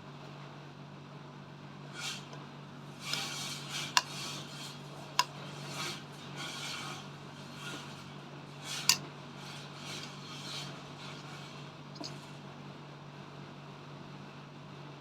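Eating sounds at a meal: utensils scraping and rubbing on dishes, with three sharp clinks. A steady low hum runs underneath.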